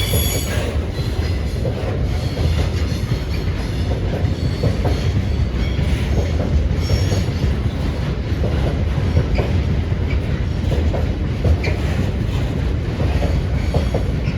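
A train running past at close range: a steady, loud low rumble of wheels on rail, with brief high-pitched wheel squeals at the start and again about seven seconds in.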